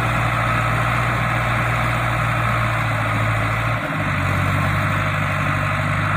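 Farm tractor engine running steadily with a low hum; its low note shifts about four seconds in.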